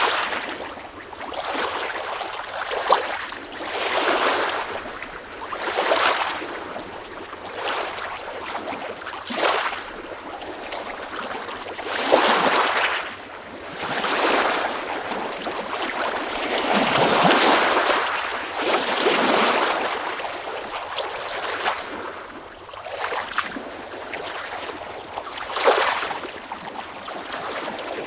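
Water waves washing and lapping, each surge of splashing hiss swelling and falling away about every two seconds.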